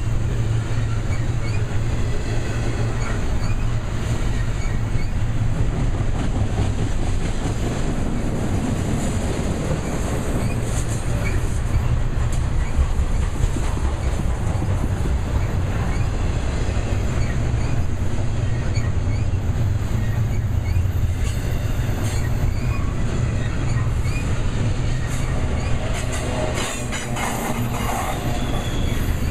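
Double-stack intermodal container train rolling past: the well cars' steel wheels make a steady low rumble and clatter on the rails, with a faint high wheel squeal. A few sharper knocks come near the end.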